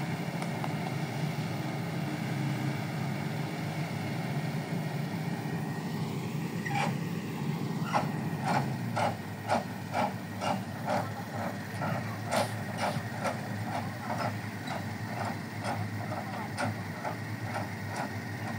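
An engine running steadily. From about eight seconds in, a regular knocking joins it, about two knocks a second.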